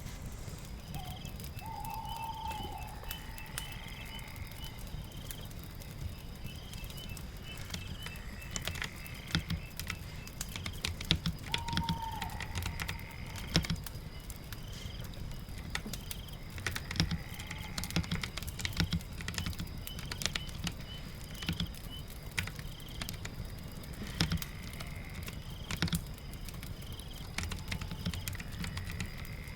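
Computer keyboard typing in irregular bursts of clicks, thickest from about a third of the way in, over a steady bed of rain and fireplace ambience. Short high chirps repeat throughout, with a few longer gliding calls.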